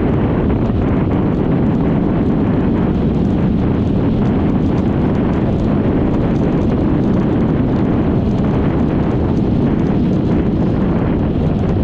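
Steady wind rushing over the microphone of a moving Yamaha XMAX 300 scooter, with the scooter's running and road noise mixed in underneath. The level holds even throughout, with no rise or fall in speed.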